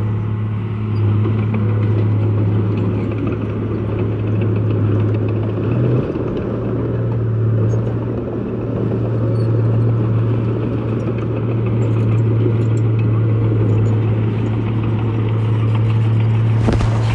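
Diesel engine of heavy earthmoving machinery running steadily at constant speed, a low even hum with a slight change about six seconds in.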